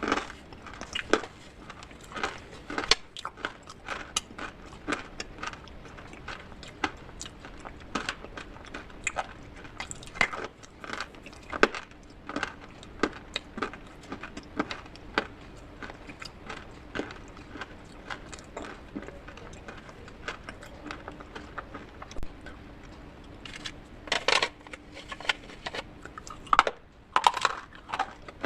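Brittle clay pieces being crushed: irregular crunches and cracks, several a second, with a cluster of louder crunches a few seconds before the end.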